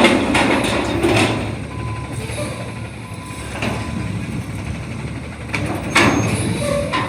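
CNG front-loader garbage truck running, its engine humming steadily, with several sharp metallic clanks, one about a second in and another about six seconds in.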